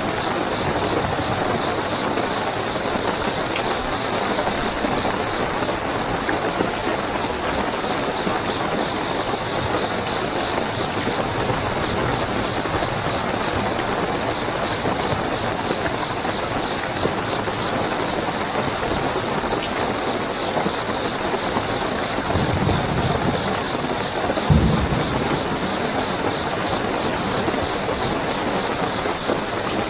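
Steady heavy rain with a continuous high cricket trill over it. Late on, two brief low rumbles rise under the rain.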